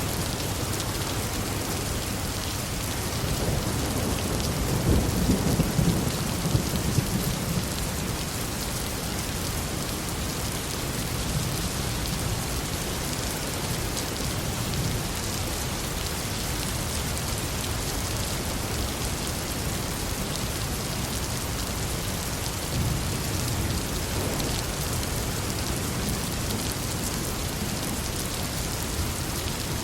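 Steady heavy rain falling on a forest, with low rolls of distant thunder swelling about four to seven seconds in and again briefly later.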